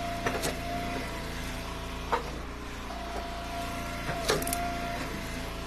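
Engine of an Eastonmade Ultra hydraulic wood splitter running steadily. Twice a held whine rises over it, as the ram works through ash rounds. Several sharp knocks and cracks of split firewood come through, about half a second in, at about two seconds and around four seconds.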